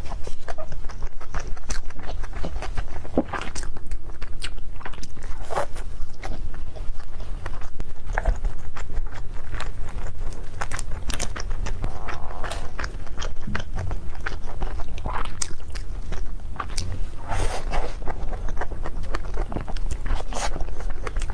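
Close-up mouth sounds of someone biting and chewing Korean cake, with irregular crunchy and sticky clicks throughout.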